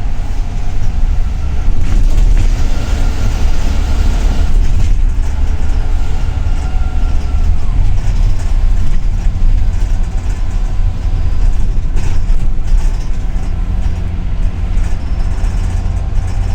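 Inside a moving double-decker city bus: a steady, deep engine and road rumble, with a faint high whine for a few seconds early on.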